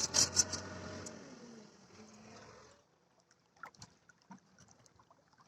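A steady engine hum mixed with water noise, with a few sharp knocks near the start; it stops abruptly about three seconds in, leaving only faint scattered drips and clicks.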